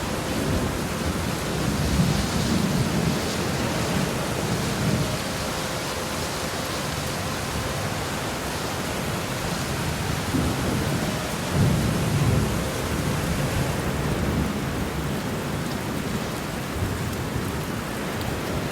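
Steady heavy rain with rolling thunder, the low rumble swelling a few seconds in and again strongest about twelve seconds in.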